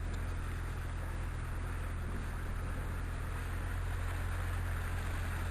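Rushing water of a creek swollen by rain, a steady even rush, heard through an open vehicle window over the low, steady running of the Jeep's engine.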